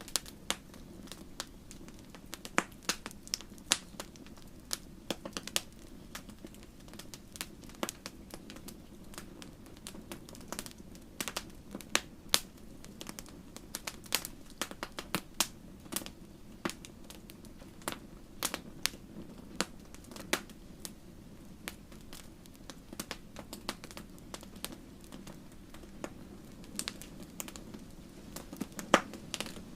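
Fire in a fireplace crackling: irregular sharp pops and snaps, several a second and some louder than others, over a low steady hum.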